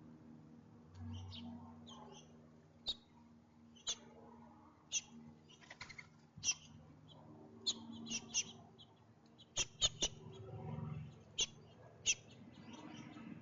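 Small birds feeding at a camera bird feeder: about a dozen sharp, irregular taps of beaks pecking at seed on the feeder, with faint high chirps in between.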